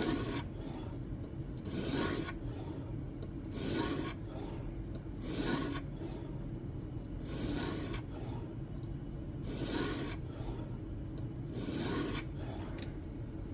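Diamond sharpening plate drawn across a clamped N690 steel knife edge in a guided sharpening system: a scraping stroke about every two seconds, repeated, while the bevel is being reprofiled.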